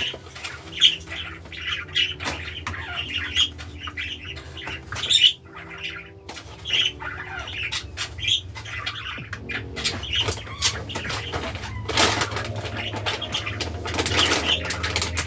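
Pet budgerigars chirping and chattering in quick, irregular calls, with a stretch of rustling noise about twelve seconds in.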